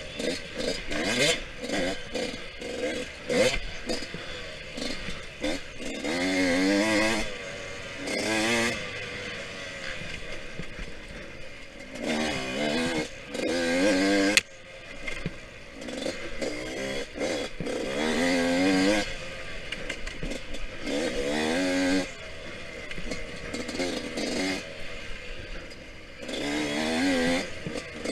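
Yamaha YZ125X's 125 cc two-stroke single-cylinder engine under race riding, revving up in repeated rising sweeps and dropping back as the throttle is rolled off and gears are shifted. There is one sharp knock about halfway through.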